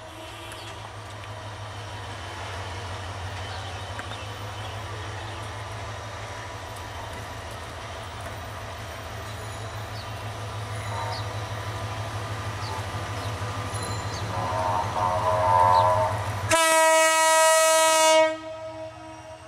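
Diesel locomotive of a Bangladesh Railway passenger train moving slowly, its engine giving a steady low rumble. Near the end the horn sounds one loud blast of about two seconds, with a shorter wavering tone a couple of seconds before it.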